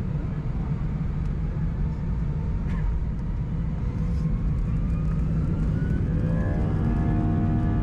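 Airbus A319-131 cabin noise from a window seat: a steady low rumble from its IAE V2500 jet engines, with an engine whine that rises in pitch through the middle. Near the end a cluster of steady tones comes in and the sound grows slightly louder.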